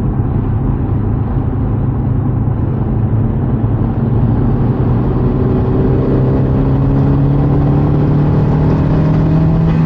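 Big-turbo Audi B5's engine heard from inside the cabin, running steadily with road rumble; from about five seconds in its pitch climbs slowly as the car gains speed.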